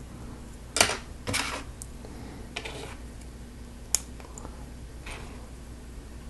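Plastic Lego Technic pieces being handled and pressed together: a few sharp clicks and short rattling rustles, with the loudest click about a second in and another sharp one about four seconds in.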